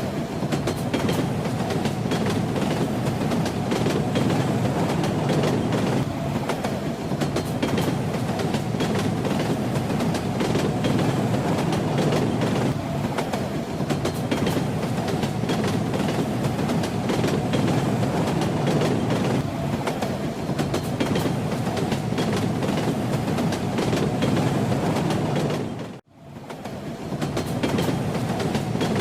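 Train running along the track: a steady rumble with the clatter of the wheels over the rails. About 26 seconds in, the sound dips out for a moment and fades back in.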